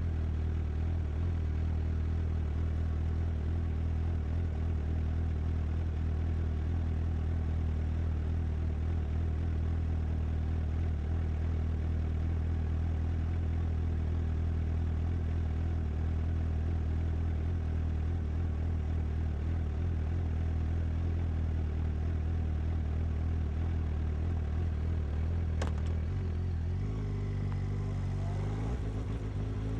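Suzuki GSX-S750 inline-four engine idling steadily through its exhaust. There is one sharp click a little before the end, and then the engine note wavers and begins to rise as the revs come up.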